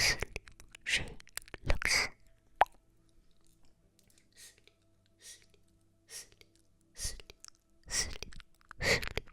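Close-miked ASMR plopping sounds, short soft pops repeating about once a second, fainter and sparser through the middle, with one sharp click about two and a half seconds in.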